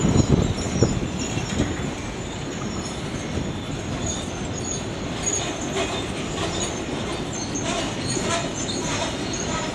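Freight cars of a slow-moving freight train rolling past, wheels rumbling on the rails, with thin high-pitched wheel squeals coming and going. The rumble is heaviest for about the first second, then steadies.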